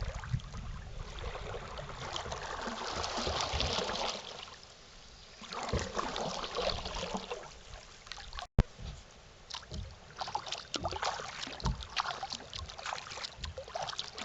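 Kayak paddle strokes, with water splashing and trickling off the blades in repeated washes. A sharp click and a brief dropout come a little past halfway.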